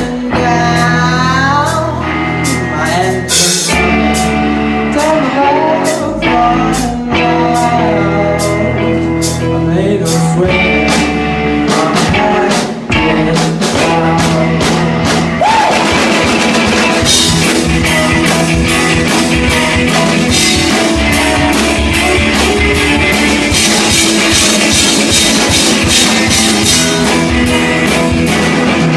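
Live rock band playing: sung vocal over electric guitar, bass and drum kit, getting denser with heavy cymbals from about halfway through. The mix is loud and harsh.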